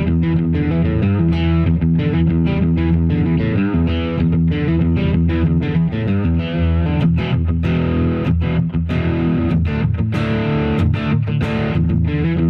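Harley Benton JA-60 Jazzmaster-style electric guitar played through a Fender Pugilist overdrive/distortion pedal, giving a driven tone. Chords and riffs are picked with frequent changes and sharp pick attacks.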